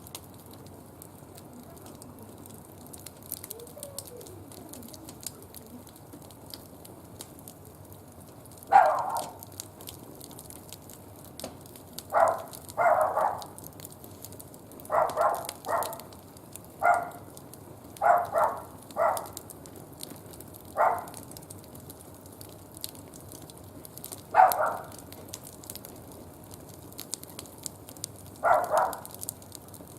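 Wood fire crackling in a barbecue grill, with a string of short, louder noises scattered through it, about a dozen in all.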